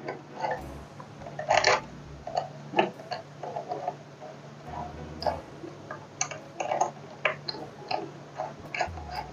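Irregular light clicks and knocks of bicycle parts being handled, as the removed handlebar and its cables are set back against the frame.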